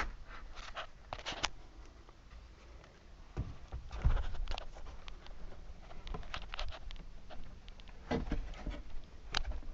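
Irregular handling and movement noises: scattered clicks and rustles with a few soft low thumps, the loudest about four seconds in.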